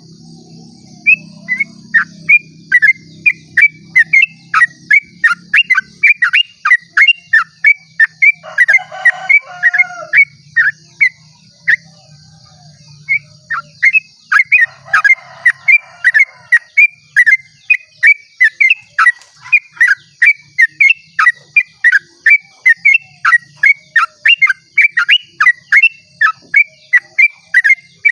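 Yellow-vented bulbul (trucukan) singing a long rapid 'ropel' run of sharp repeated notes, about three to four a second. The run breaks off briefly about twelve seconds in, then goes on.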